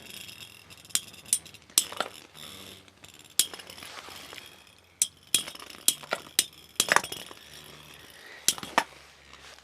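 Metal-wheeled Beyblade tops spinning and clashing in a battle stadium: a run of sharp metallic clinks at irregular intervals, about a dozen, each with a brief high ring.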